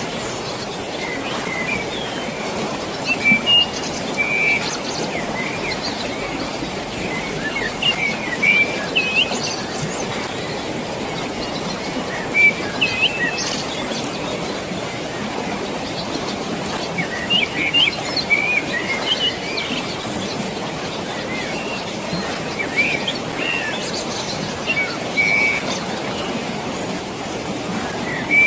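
Birds chirping in scattered bursts every few seconds over a steady rush of water.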